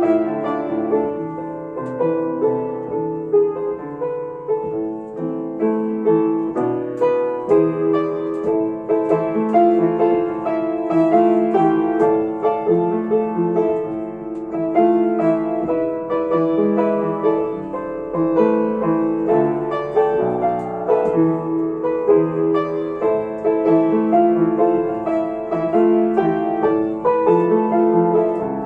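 Solo piano playing a slow, gentle melody over chords, with notes struck continuously throughout.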